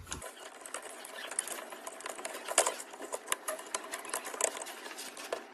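Light, irregular clicks and taps of small plastic and metal parts being handled as an induction cooker is put back together, with one sharper click about two and a half seconds in.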